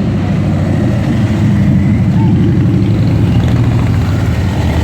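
Motorcycle engines running, a loud, steady low rumble.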